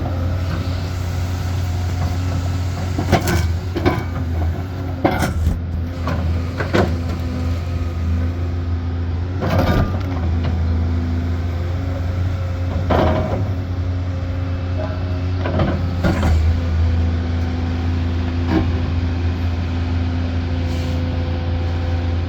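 Excavator diesel engine running steadily, with irregular, widely spaced metallic clanks and knocks from the machine's work.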